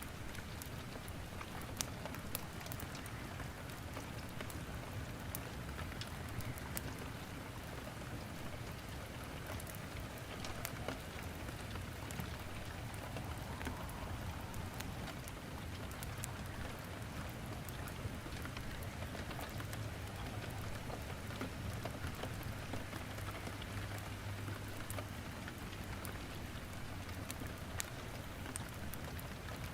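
Steady rain falling, with firewood crackling and popping in a fireplace as scattered sharp clicks throughout.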